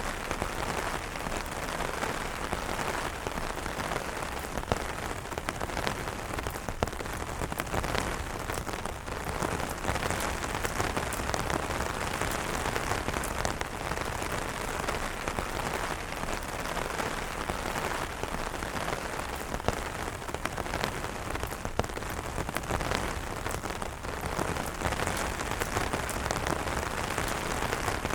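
Steady rain falling on umbrellas, with many separate drops ticking sharply through it.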